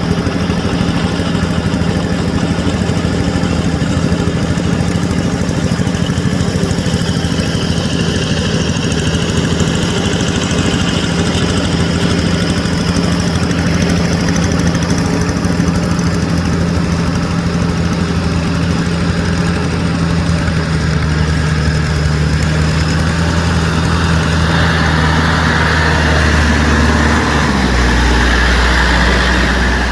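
Yanmar EF725T tractor's diesel engine running steadily; near the end its note deepens and grows a little louder.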